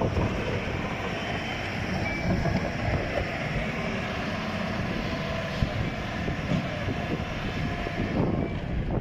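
Truck engine running with a steady rumble and hiss.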